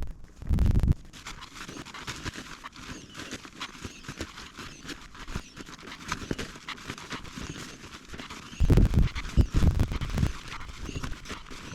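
Footsteps and rustling as someone walks a forest path, with irregular crackling throughout. Two loud low rumbling bumps on the microphone come about half a second in and again, longer, near nine seconds in.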